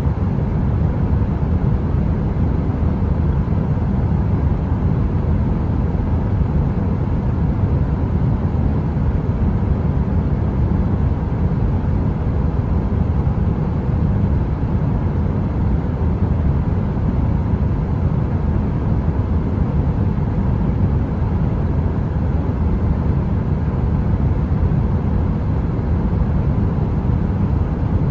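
Heater running with a steady deep rushing noise, heavy in the bass, with a faint even hum over it.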